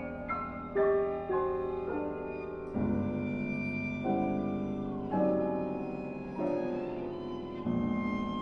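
Viola and piano playing classical chamber music: held, bowed viola notes with vibrato over piano chords, with new chords entering every two to three seconds.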